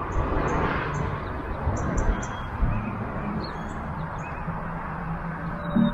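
Steady rushing of a swollen, muddy river running high after snowmelt and rain, with a few short bird chirps over it.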